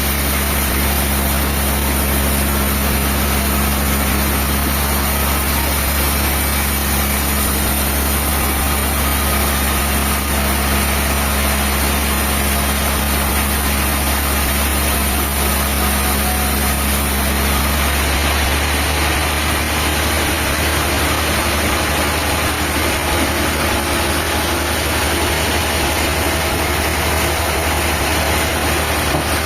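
A diesel engine running steadily, with a low hum. Its note changes about two-thirds of the way through.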